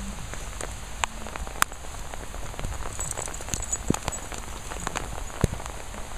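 Heavy rain pouring down on grass, with many scattered sharp taps of individual drops striking close by over a steady hiss and a low rumble.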